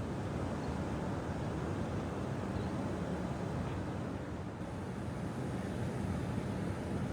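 A vehicle's steady low rumble, with wind noise on the microphone.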